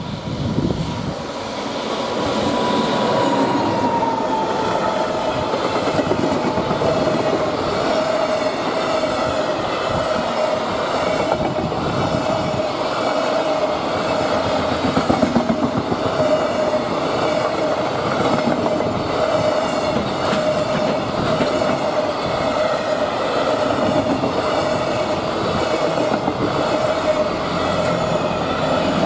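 Freight train passing close by, its wagon wheels clacking steadily over rail joints, with a steady tone running under the rumble. A higher tone falls slightly a few seconds in.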